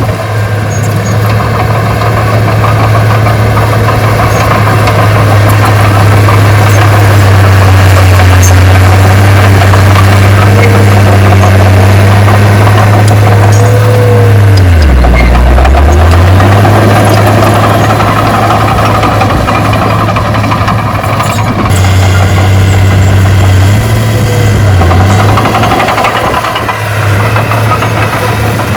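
Heavy construction machine's diesel engine running steadily and loud; about halfway through its pitch drops briefly, as if lugging under load, then picks back up.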